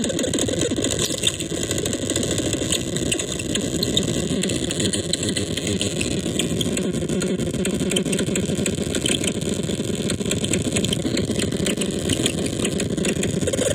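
Dark Matter Divider noise synthesizer putting out a steady, fast-pulsing low buzz with crackling hiss and clicks above it.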